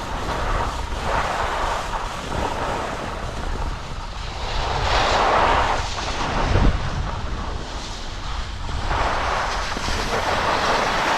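Wind rushing over the microphone of a skier moving downhill, a steady low rumble with the hiss rising and falling in swells, loudest about halfway through and again near the end.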